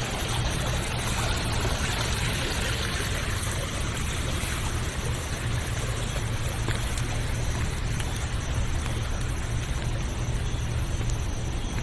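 Steady rush of running river water over a constant deep low rumble.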